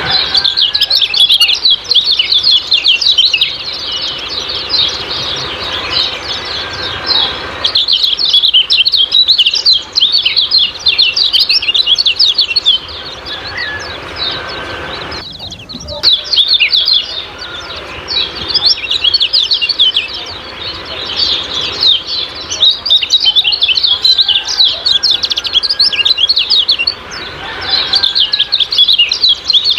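Kecial kuning songbirds chattering in fast, high 'ciak-ciak' chirps, in bouts of several seconds separated by quieter spells.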